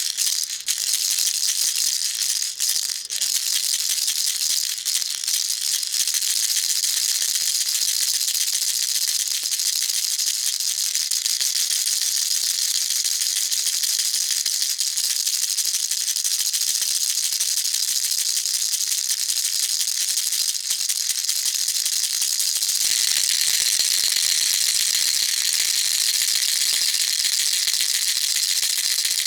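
Baby rattle shaken continuously, a dense, steady rattling. About 23 seconds in, the rattling changes to a brighter, thinner sound.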